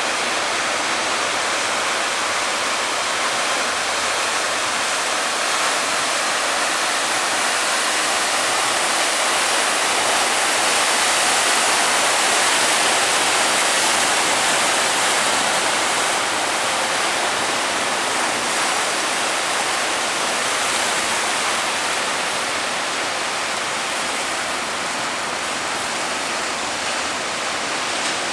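Steady rush of breaking sea waves, swelling slightly midway.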